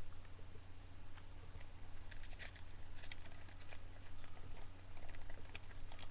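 Foil wrapper of a trading-card pack crinkling and rustling in the hands as it is worked at to open, with scattered small clicks, over a steady low hum.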